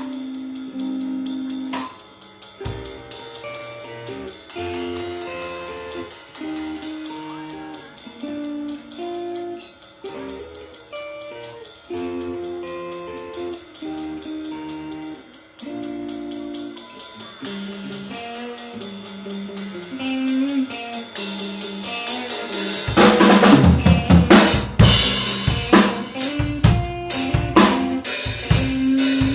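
Improvised blues-fusion instrumental: a guitar plays a single-note melodic line over a drum kit keeping time with a steady cymbal tick. About two-thirds of the way in, the drums build up with loud hits.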